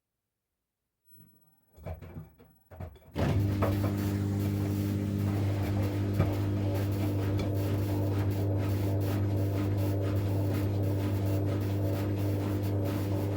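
Miele Professional PW 6065 Vario washing machine in its first interim spin. A few short knocks are followed, about three seconds in, by the machine starting abruptly into a steady, even hum with a low tone.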